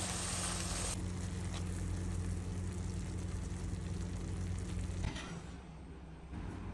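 Prawn masala frying in a pan, a soft sizzle over a steady low hum; the sound cuts off about five seconds in and goes quieter.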